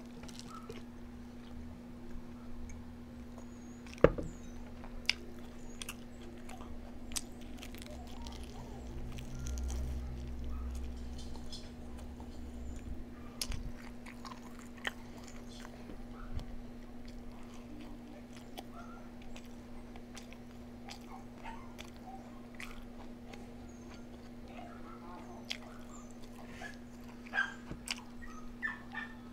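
A person eating close to the microphone: biting and chewing with small crunches and scattered clicks, and one sharp knock about four seconds in, over a steady low hum.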